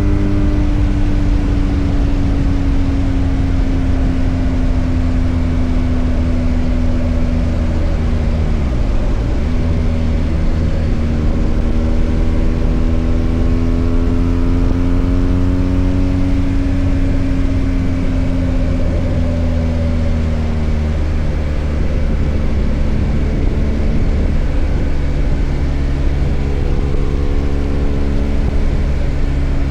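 BMW R 1250 GS Adventure's boxer-twin engine running under way, its note falling and rising with road speed, with a brief sharp dip about a third of the way through, as at a gear change.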